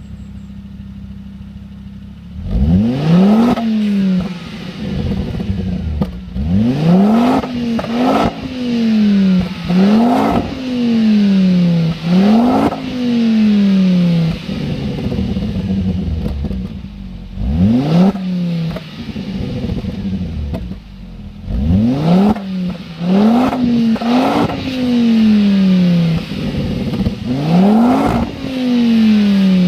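Ford Focus ST's 2.5-litre turbocharged five-cylinder engine through a Supersprint exhaust, idling briefly and then revved hard about ten times, each rev shooting up fast and falling back slowly to idle. Short sharp noises near the tops of the revs fit the blow-off valve venting as the throttle shuts.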